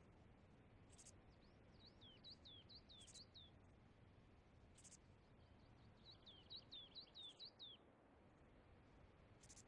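Faint bird chirping: two runs of quick, high, downward-sliding chirps, with a short high squeak about every two seconds, over a faint low background hiss.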